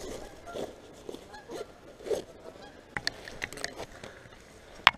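A few short bird calls in the first half, then a run of sharp clicks and rustles, loudest near the end.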